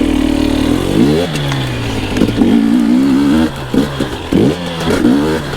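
Two-stroke dirt bike engine under way, held at steady revs, dropping off about a second in, then pulling again. Near the end come several quick throttle blips, the revs rising and falling each time.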